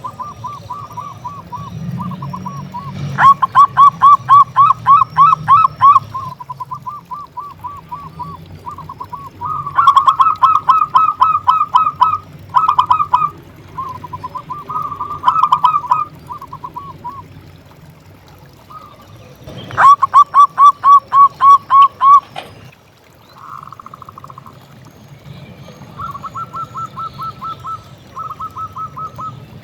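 Zebra doves (perkutut) cooing: rapid runs of short staccato coos in repeated phrases. Three loud, close phrases of two to three seconds each alternate with softer cooing trains in between, which sound like more than one bird.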